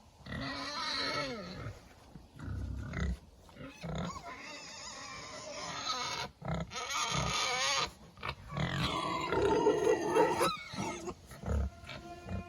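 Pigs grunting, on and off with short pauses between calls.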